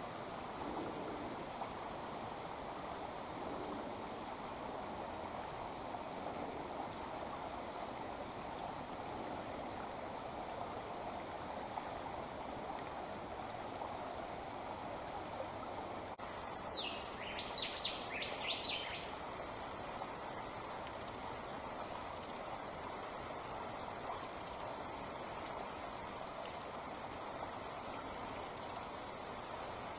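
Creek water flowing steadily. Just past halfway a bird gives a short burst of quick, high, sweeping notes lasting about two seconds.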